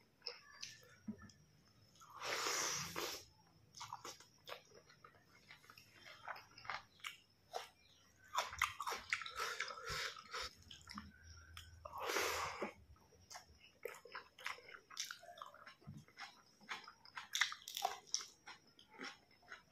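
Close-up eating sounds of a person chewing mouthfuls of rice and curry, with many wet smacks and clicks of the lips and mouth. Two longer, louder breathy rushes come about two seconds in and again about twelve seconds in.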